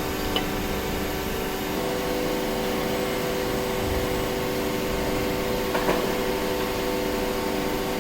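Machinery running with a steady hum made of several held tones, with a light click near the start and another about six seconds in.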